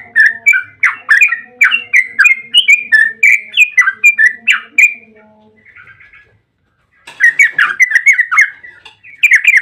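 Yellow-vented bulbul singing a long, rapid run of chirping notes, about two to three a second, breaking off about five seconds in and resuming in two shorter bursts near the end.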